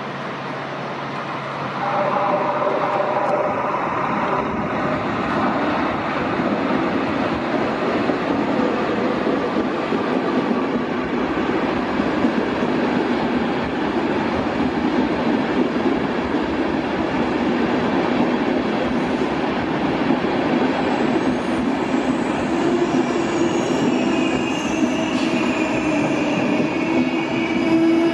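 Train moving through a station with a steady rumble of wheels on the rails. From about three quarters of the way in, high wheel squeal sets in.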